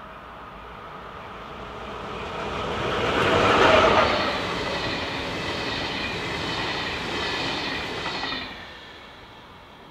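Electric-locomotive-hauled passenger train passing at speed. It builds as it approaches and is loudest as the locomotive goes by about four seconds in. The coaches' wheels then roll past steadily, with several high, steady tones over the noise, and the sound falls away quickly just after eight seconds as the last coach passes.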